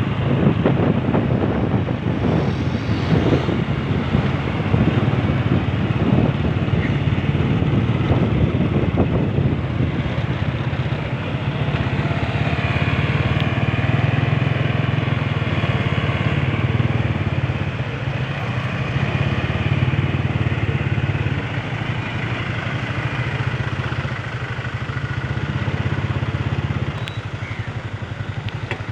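Motorcycle engine running steadily while under way, with a rough, noisy layer over it for the first ten seconds or so.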